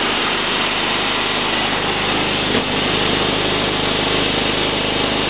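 John Deere L120 lawn tractor engine running steadily, smooth and without any knock.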